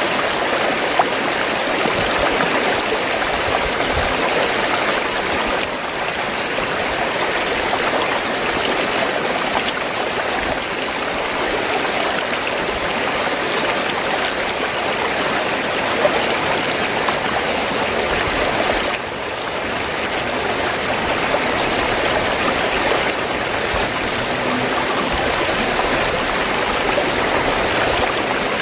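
Fast-flowing stream water, gurgling and rushing steadily.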